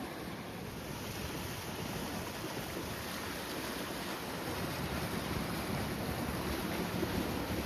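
Seaside wind and sea waves: a steady, noisy rush with no distinct events, slowly growing louder.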